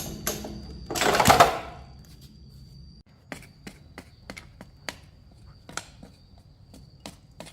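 A loud clatter about a second in, then light, separate clicks and knocks of hand tools and metal parts being handled, roughly two a second, over a faint steady high whine.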